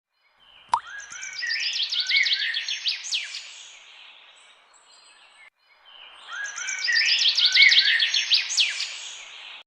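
Small birds chirping in rapid runs of high chirps and short rising calls. Two nearly identical passages sound with a brief quiet gap between them, after a sharp click with a quick upward sweep just before the first.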